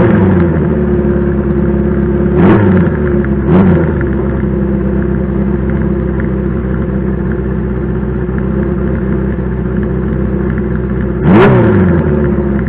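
Honda CB400Four's 408 cc inline-four idling warm through hand-bent short exhaust pipes, blipped three times: twice in quick succession a few seconds in, and once more, the loudest, near the end, each rev rising and falling straight back to idle.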